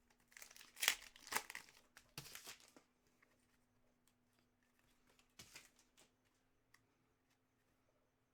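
Hand handling of trading card packs: foil wrapper crinkling and tearing and cards being shuffled. A cluster of short rustles comes in the first three seconds and one more about five and a half seconds in, with only faint handling between.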